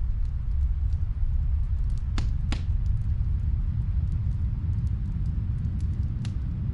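Snowstorm wind as a steady low rumble, with a fireplace crackling faintly from another room: scattered small snaps, and two sharper pops in quick succession about two seconds in.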